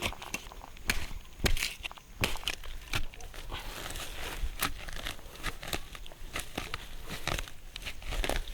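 Dry leaves and twigs crackling and rustling, with sharp snaps scattered irregularly throughout.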